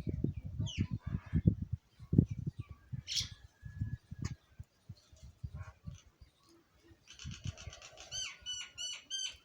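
Birds squabbling over food: low fluttering thumps of flapping wings through the first few seconds, then a fast run of repeated chirping calls and a few descending chirps near the end.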